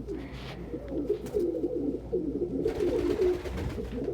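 Several pigeons cooing at once in overlapping, low, wavering coos, with a brief rustle a little past halfway.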